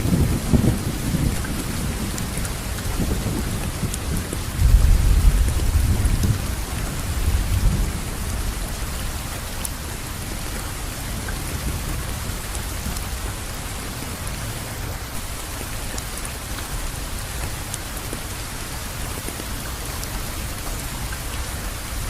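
Steady rainfall with low rolling thunder rumbles, at the start and again around five seconds in.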